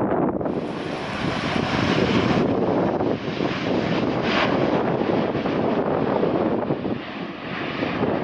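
Jet airliner's engines at takeoff thrust, a steady heavy roar, with wind buffeting the microphone.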